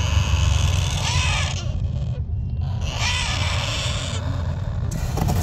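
Parrot giving two harsh, drawn-out calls, each over a second long and about a second apart, over a steady low rumble.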